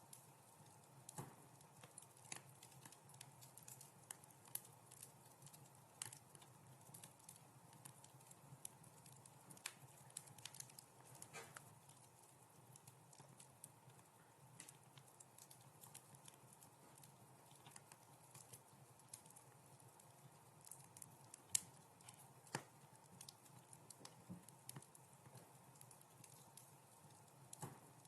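Wood fire crackling: irregular sharp pops and snaps over a faint low hum, with one louder pop a little after two-thirds of the way through.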